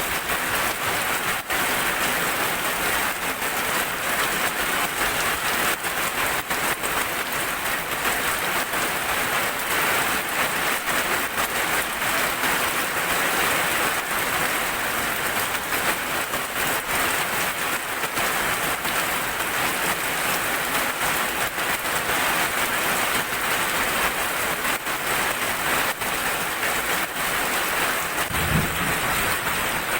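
Steady heavy rain, a dense hiss with individual drops ticking through it, and a brief low thump near the end.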